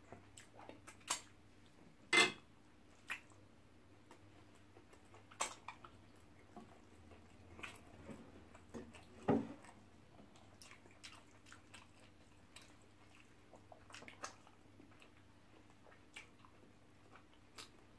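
Quiet chewing and mouth noises of two people eating amala with ogbono soup and fried rice with chicken, with scattered lip smacks and clicks and the odd tap of a fork on a plate. The loudest smacks come about two seconds and nine seconds in, over a faint steady hum.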